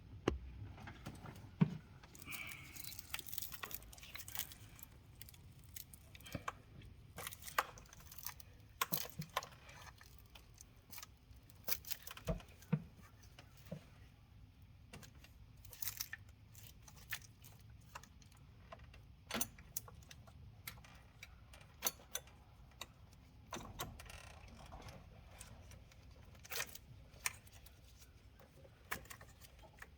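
Irregular light metallic clicks and clinks of hand tools and parts being handled during an engine teardown, with no engine running.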